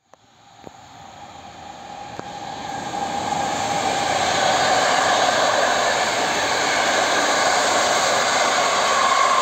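PKP Intercity passenger train hauled by an electric locomotive running through the station: a rush of wheels on rails that swells over the first few seconds, then holds loud and steady. A hum within it climbs a little in pitch toward the end.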